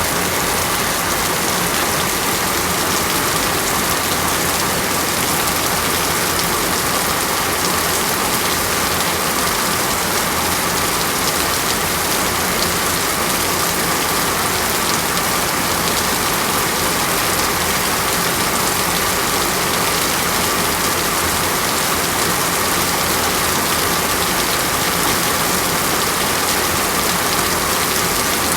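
Steady, dense rain falling without a break.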